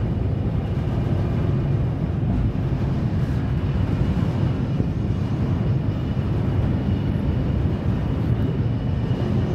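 Passenger train carriage running, a steady rumble of wheels on rails heard from inside the coach.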